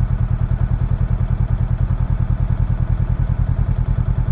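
Motorcycle engine idling steadily, a fast even beat of exhaust pulses.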